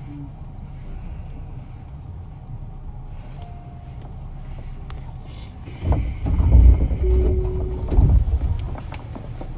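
Sound inside a Tobu 9000 series train car: a steady low rumble, then from about six seconds in a louder stretch of low thuds and clatter lasting about three seconds, with a short held tone in the middle.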